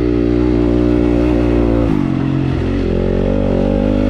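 Dirt bike engine running hard at steady revs. Just under two seconds in its pitch drops as the revs fall, then it holds steady at the lower pitch.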